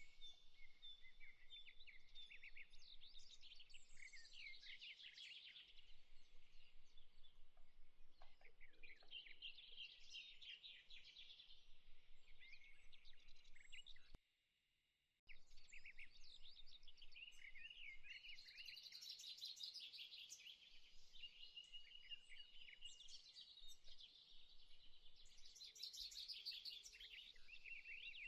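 Faint birdsong ambience: several small birds chirping and trilling in quick overlapping phrases, cutting out for about a second near the middle.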